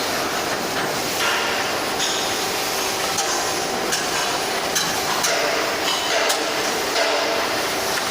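Steady industrial workshop noise with about seven sharp metallic knocks, irregularly spaced, as from a hammer striking metal.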